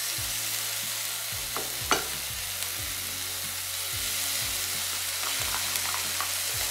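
Chicken, broccoli and bell-pepper stir fry sizzling steadily in a nonstick wok on low heat as a dark sauce is poured over it. A sharp click comes about two seconds in.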